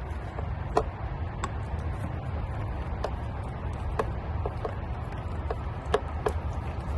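Scattered sharp clicks and taps of hand work fitting a bolt on a throttle body, about six over a few seconds, over a steady low rumble.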